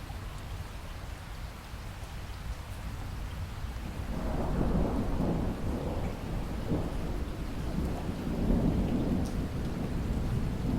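Steady rain falling, with a long roll of thunder building up about four seconds in and rumbling on to the end.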